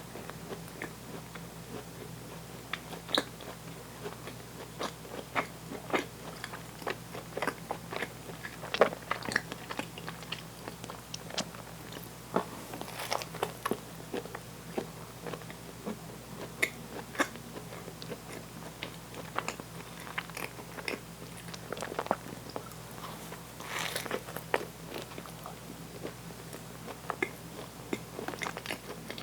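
Close-miked biting and chewing of food, with many short, sharp crunches and clicks scattered through, a few louder bites among them.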